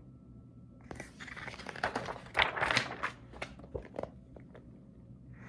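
Paper pages of a picture book being turned: a crinkly paper rustle that starts about a second in and lasts about three seconds, with a few light clicks.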